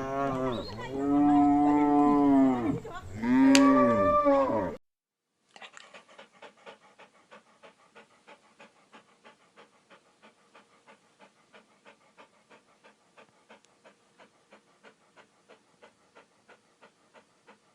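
Cow mooing: the tail of one moo, then two long, loud moos, each rising and falling in pitch. After a short break, a faint, even series of short pulses follows, about three a second.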